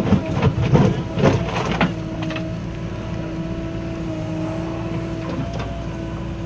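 Diesel engine of a JCB 3DX backhoe loader running steadily with a constant whine, with a burst of clattering knocks in the first two seconds.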